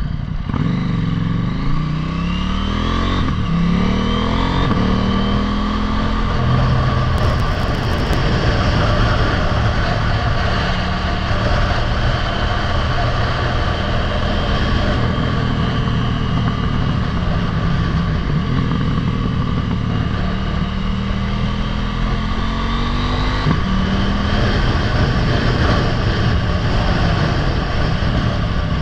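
Motorcycle engine heard on the ride. It climbs in pitch several times over the first few seconds as the bike accelerates through the gears, then runs at a fairly steady pitch, with another shift about 23 seconds in, over a steady rushing noise.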